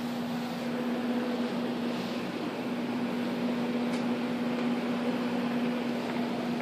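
A steady low hum at one constant pitch over an even hiss, like a motor or electrical appliance running without change.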